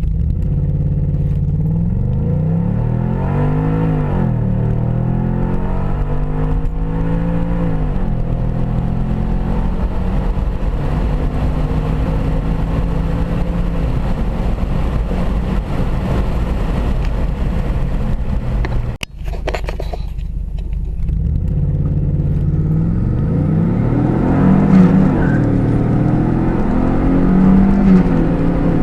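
2006 Audi S4's 4.2-litre V8 under full-throttle acceleration, revs climbing and dropping back at each automatic upshift, with the climbs stretching out in the higher gears. A brief cut a little past halfway is followed by another hard launch, again pulling up through the gears.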